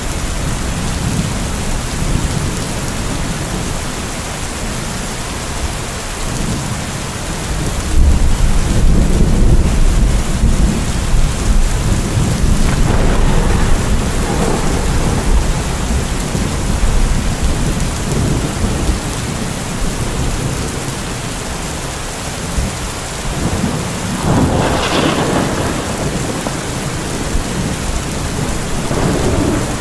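Steady heavy rain with thunder rolling through it. A deep, loud rumble comes about a quarter of the way in and lasts several seconds, and further rolls of thunder follow later.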